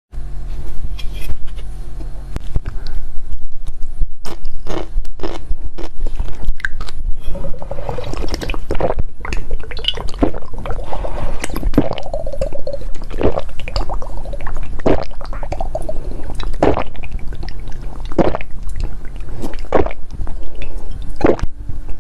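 Close-up eating sounds: wet, squishy chewing with many short sharp mouth clicks and smacks throughout.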